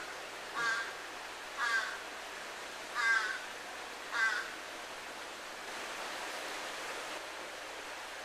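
A crow cawing, about five harsh caws roughly a second apart that stop about four seconds in, over the steady rush of river water.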